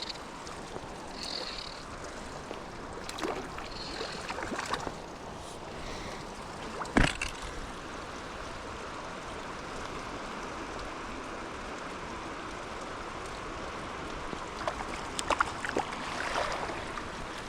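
Creek water running steadily, with a few sharp knocks and splashes scattered through; the loudest is about seven seconds in.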